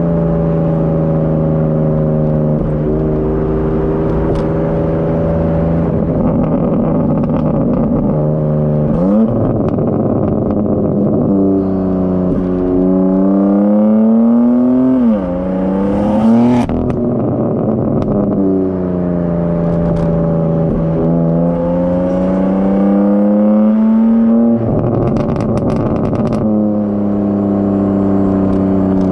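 BMW G82 M4 Competition's twin-turbo inline-six, with high-flow cats and downpipes, cruising at steady revs for the first stretch. About halfway the revs climb, drop once at an upshift, then climb again and end in a short crack. It then settles back to steady cruising.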